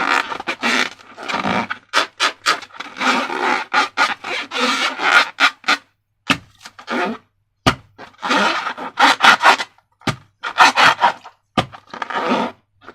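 Slime being handled and worked by hand: irregular bursts of rubbing, scraping and sticky squishing, with short pauses between them and a couple of sharp clicks.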